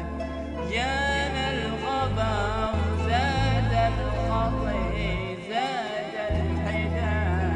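Arabic vocal music: a voice sings a wavering, ornamented melody without clear words over a low sustained drone that steps to a new pitch every second or two.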